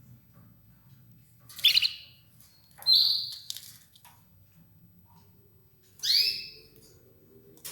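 Red ivory canary giving three short, loud chirp calls: two about a second apart, then a third some three seconds later.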